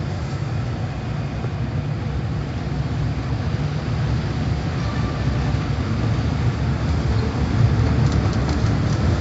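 Steady low mechanical rumble, like a vehicle or machinery running, growing slightly louder toward the end.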